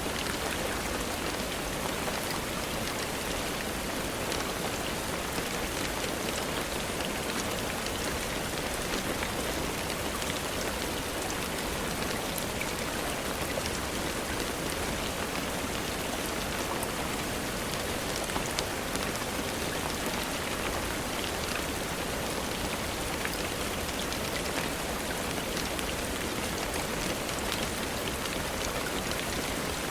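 Steady rainfall: an even hiss with many small, scattered drop ticks, holding the same level throughout.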